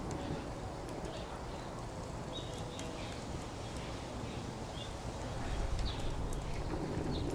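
Wood fire crackling, with sharp irregular pops scattered through, over a low background rumble that swells about five and a half seconds in.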